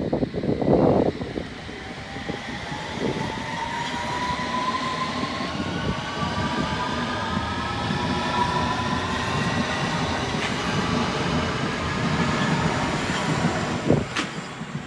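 London Underground S7 stock train pulling away, its traction motors whining in several tones that rise steadily in pitch as it gathers speed, over wheel and track noise. A loud burst of noise in the first second or so, and a sharp click near the end.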